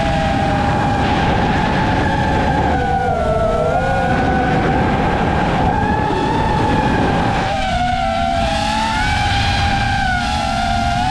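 Brushless motors and propellers of a 5-inch FPV quadcopter whining in flight, the pitch rising and falling with the throttle, over a steady low rushing noise.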